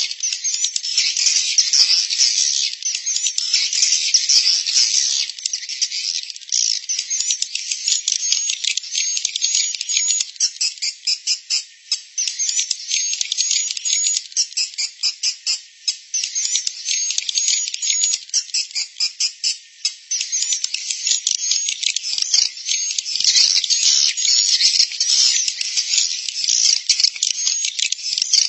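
Edible-nest swiftlets chattering in fast trills of clicks mixed with short high chirps, a dense colony sound that thins into separate bursts midway. This is a 'suara inap' roosting-call track, the lure sound played in swiftlet houses to draw swiftlets in to stay and nest.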